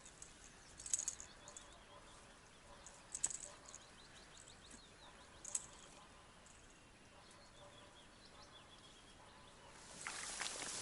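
Quiet marsh ambience with a few faint, short bird chirps and sharp ticks. Near the end, water sloshes as someone wades knee-deep through reeds.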